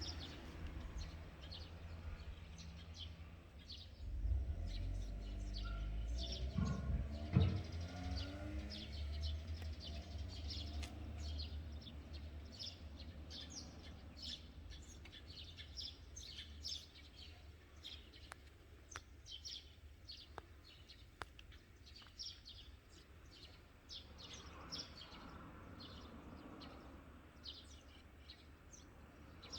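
Small birds chirping repeatedly in short, high calls over a steady low traffic rumble from the road. A vehicle passes about four to eight seconds in, the loudest sound.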